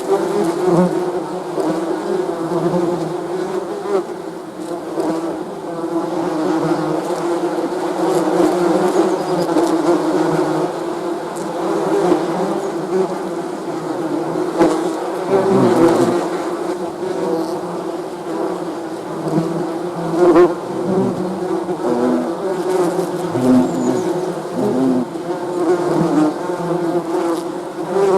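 Bees buzzing continuously, many at once, in a dense, wavering drone. Now and then a single bee's lower buzz passes close, briefly rising and falling.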